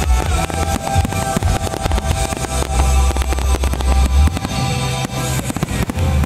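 Music with a heavy, steady bass line plays loudly while fireworks burst and crackle again and again.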